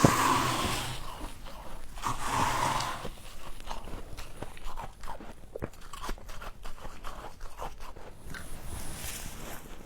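Frost being bitten and chewed close to the microphone: a loud crunch at the start and another at about two seconds, then a run of smaller crisp crackles as the ice is chewed.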